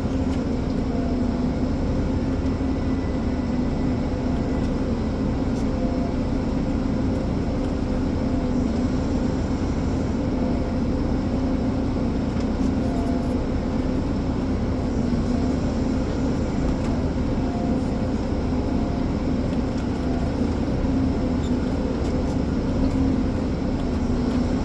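Ponsse Elephant forestry forwarder's diesel engine running at a steady speed, a constant low drone with no change in pitch.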